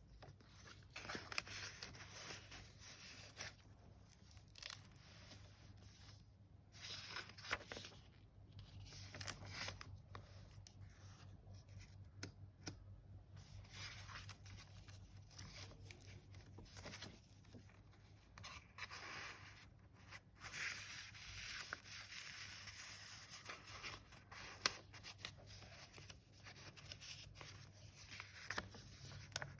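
Paper pages of a handmade junk journal being turned and handled: faint, irregular rustling with sharp little clicks and crinkles throughout, over a low steady hum.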